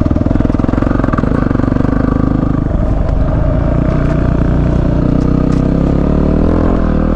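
Single-cylinder dual-sport motorcycle engine running steadily while riding over a rocky dirt track, with scattered light knocks. Near the end the revs dip and then pick up again.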